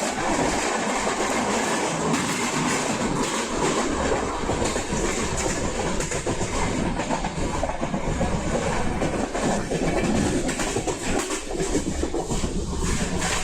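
Passenger train running along the track: a steady rumble of wheels on rail with irregular clattering throughout.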